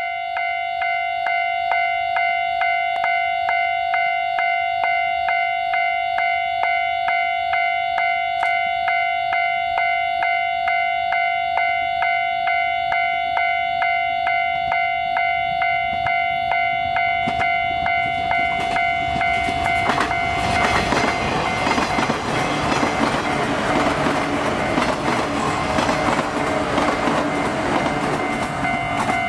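A railway crossing warning bell rings in an even, steady rhythm throughout. From about two-thirds of the way in, the running noise of a JR 115 series electric train builds as it comes past close by and becomes the loudest sound, and the bell keeps ringing through it.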